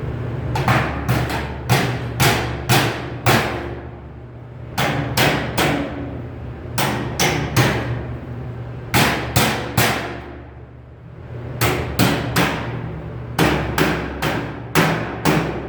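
A hammer striking sheet metal in quick bursts of three to six ringing blows, about three or four a second, with short pauses between bursts. A steady low hum runs underneath.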